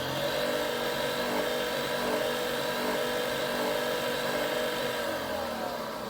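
Nespresso Vertuo Next coffee machine whirring steadily as its motor runs through a brew attempt, then winding down after about five seconds. By the owner's account this attempt makes no coffee and ends in the fault signal of two orange blinks.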